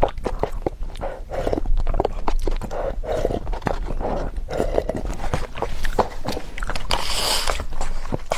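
Close-miked eating sounds: chewing spicy fire noodles, with wet mouth clicks and smacks about two or three times a second.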